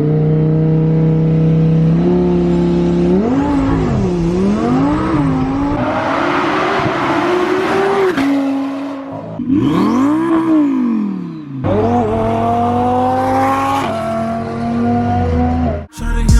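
Twin-turbocharged 5.2-litre V10 of a Lamborghini Huracán LP610-4 running and revving. The engine note rises and falls in pitch several times, with a few abrupt changes from one stretch of engine sound to the next.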